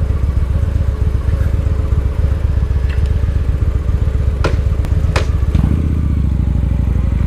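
Victory Highball motorcycle's V-twin engine running on the move, with two sharp clicks about three-quarters of a second apart midway, and the engine note growing fuller near the end.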